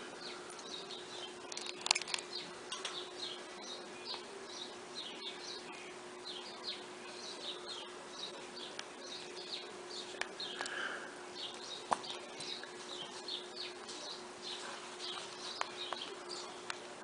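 Rapid, high-pitched chirps repeating continuously over a steady low hum, with a few sharp clicks scattered through.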